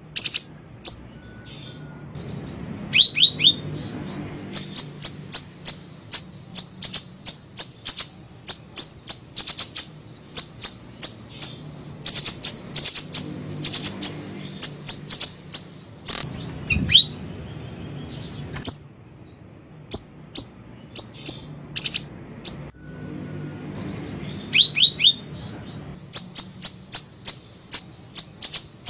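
Siri-siri bird song: long rapid runs of sharp, very high chirps, broken now and then by a few quick down-slurred notes at a lower pitch, over a faint low background hum.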